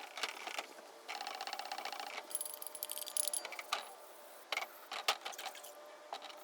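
Small metal clicks, clinks and rattles from hand tools and parts being handled. About a second in there is a quick run of rapid, evenly spaced ticks lasting about a second, then scattered single clicks.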